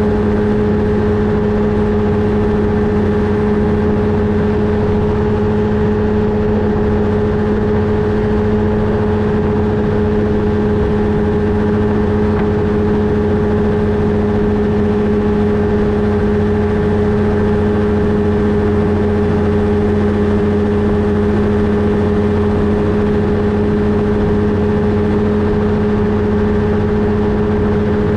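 Flightstar II ultralight's two-stroke engine, which the pilot believes is a Rotax 503, running at steady cruise power with its propeller: a constant drone that holds one pitch throughout.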